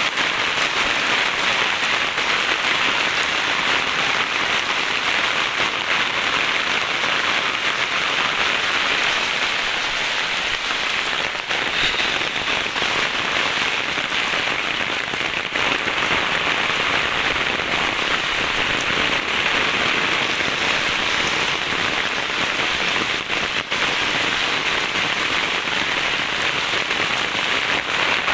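Steady rain falling, an even, dense hiss of drops that does not let up.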